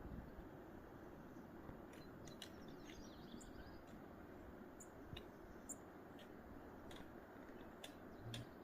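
Near silence: faint outdoor ambience with a few soft scattered clicks.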